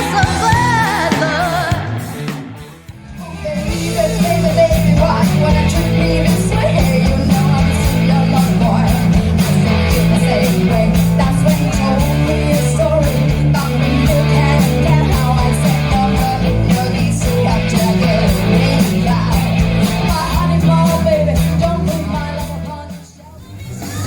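A band playing a rock and roll song with a lead singer. The music dips briefly about three seconds in and again near the end.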